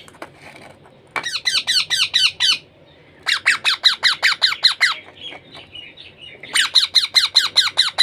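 A young parrot squawking in three quick bouts of rapid, shrill, repeated calls, about six or seven a second, each note sliding down in pitch, with short pauses between the bouts.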